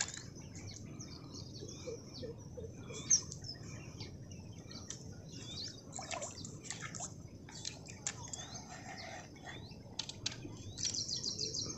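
Small birds chirping and calling: many short, high chirps and curved whistles, with a fast trill of repeated notes near the end, over a steady low outdoor background.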